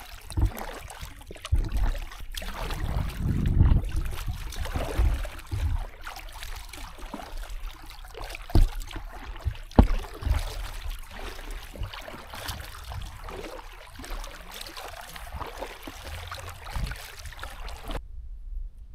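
Paddling a boat on a river: water splashing and trickling from paddle strokes, with a couple of sharp knocks about a third and halfway through. Near the end the sound drops off suddenly.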